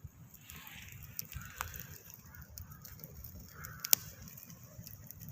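Wood fire crackling, with a low rumble and scattered sharp pops; the loudest pop comes about four seconds in.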